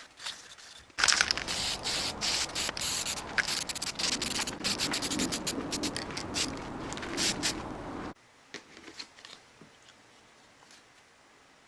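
Rubbing and scraping by hand on a hard part, with many small clicks, for about seven seconds before it cuts off abruptly; faint scattered clicks follow.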